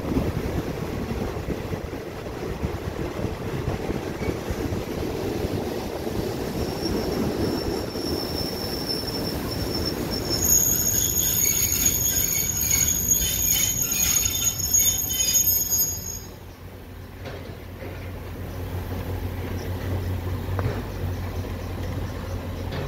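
Passenger train rolling into a station with a rumble. From about a third of the way in, high-pitched squealing in several steady tones rises as it brakes. The squeal cuts off about two-thirds through as the train stops, leaving a low steady hum.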